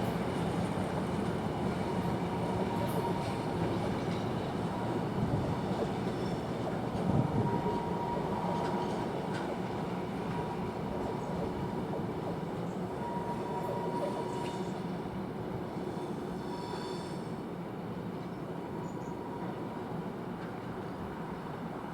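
A train rolling past on the line, its wheels running over the rails with a thin, intermittent wheel squeal. The sound eases off gradually over the last several seconds as the train moves away.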